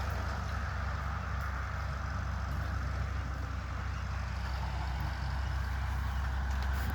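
Tractor engine running at a steady speed, a low even drone.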